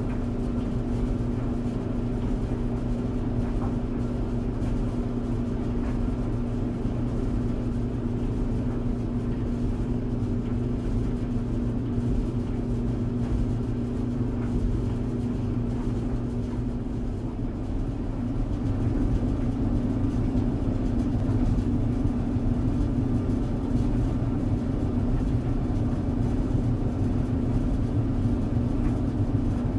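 Tumble dryer running: a steady low hum that grows a little louder about eighteen seconds in.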